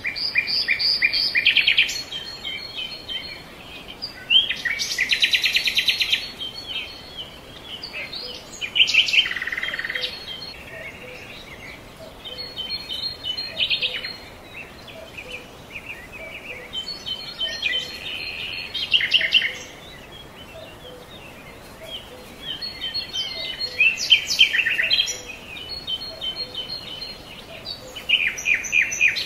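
Birdsong: birds singing and chirping in short phrases every few seconds, with quieter chirps in between.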